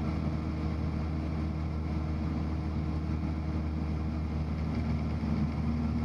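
Cessna 172's piston engine and propeller droning steadily, heard from inside the cabin during a steep turn.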